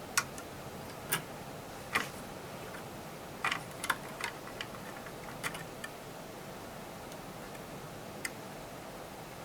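Sharp, irregular clicks and taps of small tools and parts being handled while wires are disconnected from a Dynaco SCA-80Q amplifier's control section. There are about ten clicks, most of them in the first six seconds, over a steady low hiss.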